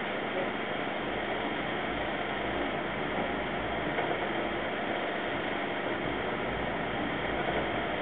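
Steady running noise of a passenger train in motion, heard from inside a sleeper carriage.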